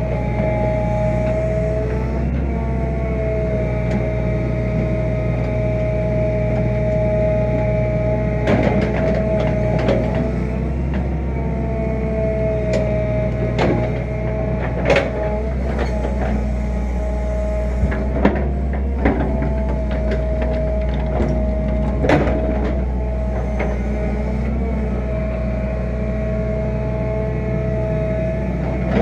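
Fiat-Hitachi EX165 crawler excavator working: the diesel engine runs steadily under a hydraulic whine that breaks off and comes back several times as the machine moves. Scattered sharp knocks and clanks come through, most of them in the second half.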